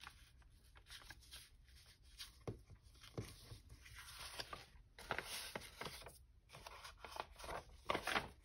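Paper and cardstock pieces being handled and shuffled on a work surface: faint scattered rustles and light taps, a little louder near the end.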